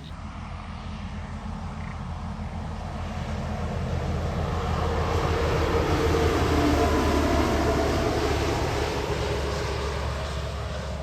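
A heavy truck driving past: engine and tyre noise build up, are loudest about six to seven seconds in, and fade away, with the engine's pitch dropping slightly as it goes by. A steady low hum runs underneath.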